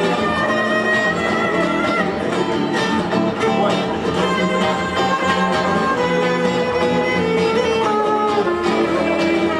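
Violin playing a melody over guitar accompaniment, an instrumental break between sung verses.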